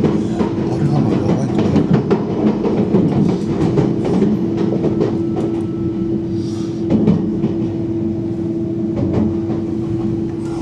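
Passenger train running, heard from inside the carriage: its wheels clatter irregularly over rail joints and points, over a steady low hum.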